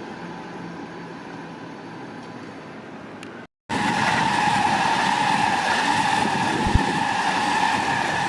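Railway train running with a steady high squeal over a rumble, typical of wheel or brake squeal. It drops out briefly about three and a half seconds in and comes back louder, with a couple of low thumps near the end.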